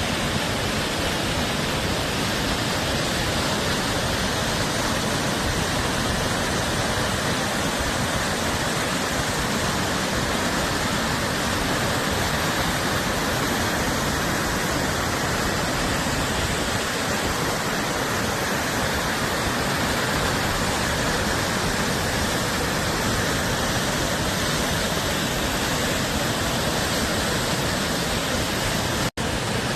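Narada Falls, a 188-foot waterfall, rushing in a loud, steady, even roar of falling water. The sound drops out for an instant near the end.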